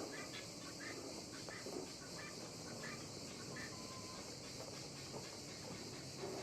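Faint clucking of chickens with scattered short bird calls, over a steady high insect drone.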